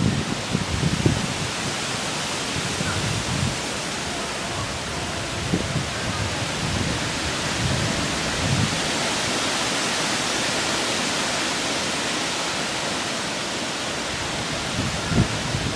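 Strong storm wind blowing through trees, a steady rushing hiss, with gusts buffeting the microphone a few times.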